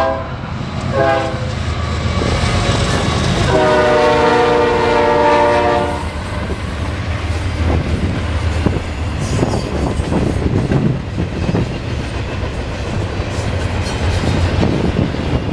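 Norfolk Southern freight locomotive's air horn sounds a short blast about a second in and a longer blast from about 3.5 to 6 seconds, over the low rumble of the diesel engines. After that, the wheels of double-stack intermodal cars clack and rumble steadily along the rails as the train passes.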